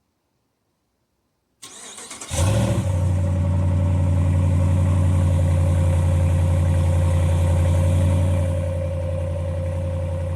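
2018 Ram Rebel pickup's engine cold-started: the starter cranks briefly, the engine catches about two seconds in and runs at a steady idle, which settles a little quieter near the end.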